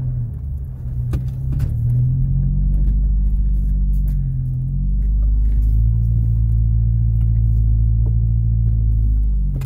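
Toyota Camry's engine running, heard from inside the cabin: a steady low hum that shifts in pitch a few times as the car is driven.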